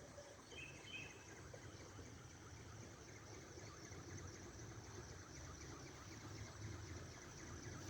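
Faint outdoor ambience: a low rumble, a thin steady high hiss, and a couple of short chirps less than a second in.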